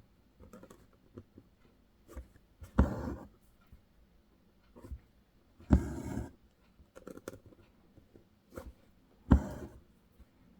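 Embroidery thread drawn through taut hoop fabric: three short rasping swishes about three seconds apart, with small ticks and taps between them.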